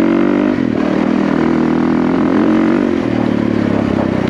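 Yamaha WR450F's single-cylinder four-stroke engine running under throttle. Its pitch rises, dips briefly just under a second in, climbs again and holds, then falls about three seconds in as the revs come down.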